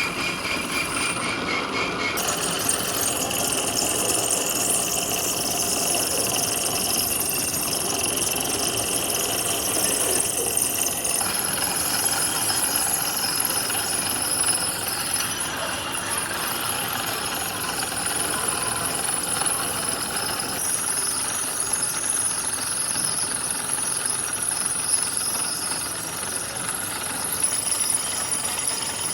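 A machine tool working steel crankshaft metal: a steady, loud rasping noise with high metallic ringing. It changes in tone about two seconds in and again around eleven seconds in.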